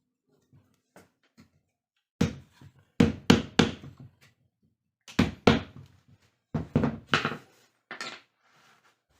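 A series of sharp knocks in small groups, about a dozen in all, starting about two seconds in.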